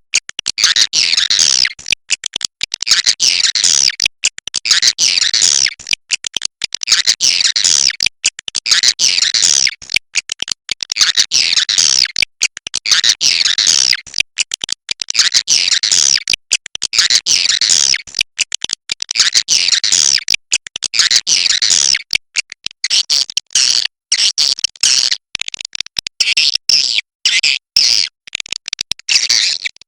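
Swiftlets giving rapid high-pitched twittering calls in repeated phrases every second or two, with short gaps between them; near the end the phrases become shorter and more broken up.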